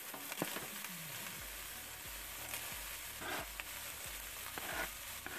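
Chopped mushrooms sizzling as they hit a hot pan of rendered chicken fat, with a few sharp scrapes and taps of a knife pushing them off a cutting board.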